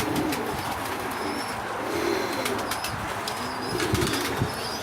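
A flock of pigeons cooing, with scattered sharp clicks and faint short high chirps.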